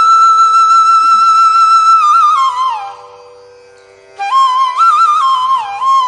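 Background music: a solo flute plays an ornamented Carnatic-style melody over a steady drone. It holds a long note, slides down through a falling phrase, and dies away about three seconds in. About a second later the melody resumes with quick bending turns.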